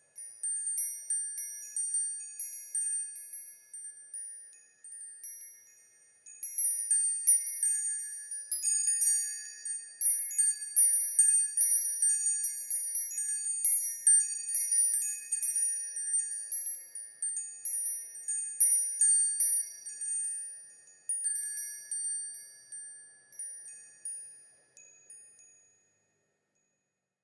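Metal wind chimes tinkling: many high ringing tones struck at irregular moments, overlapping and dying away, busiest in the middle and fading out shortly before the end.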